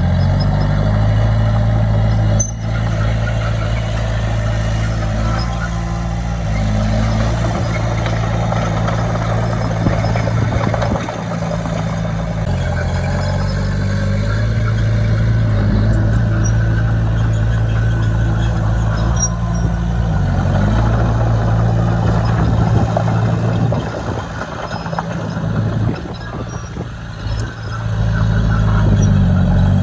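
Bulldozer's diesel engine working under load, its pitch sagging and picking back up several times as the dozer pushes and eases off.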